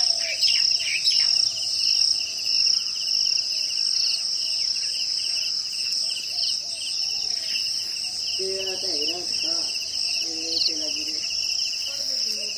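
Chorus of insects trilling steadily: a high continuous trill with a lower, rapidly pulsing trill beneath it.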